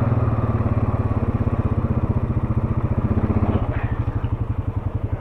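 ATV engine running at low speed with a steady pulsing beat, easing off about three and a half seconds in to a quieter idle.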